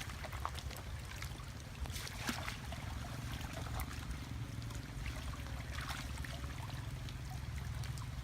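Water trickling and splashing, with scattered small splashes and clicks over a steady low rumble.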